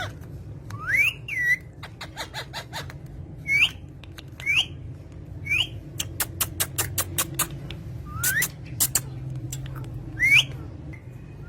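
Parrots giving scattered short, sharp whistled calls that sweep up and down in pitch, with two runs of rapid clicks between them and a steady low hum underneath.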